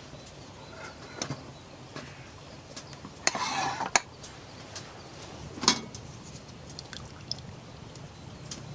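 A short splash of liquid being poured, lasting about half a second, about three seconds in. It is followed by two sharp clinks of camp cookware, over scattered light taps.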